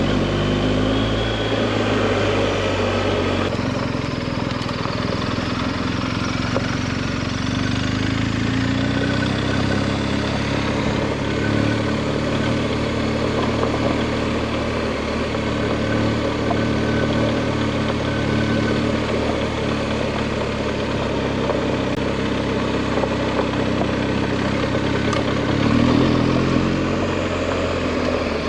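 BMW adventure motorcycle engine running steadily under way, its pitch shifting slightly about a second in and rising briefly near the end.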